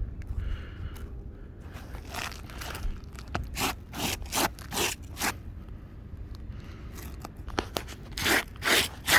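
A series of short, sharp scraping strokes, roughly two a second, in two runs with a pause of about two seconds between them.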